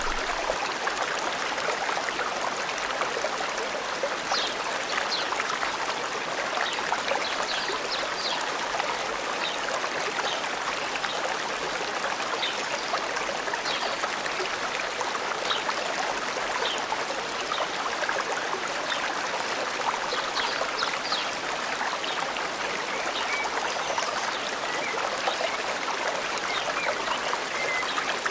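Forest stream flowing steadily, with short, high bird chirps scattered over it.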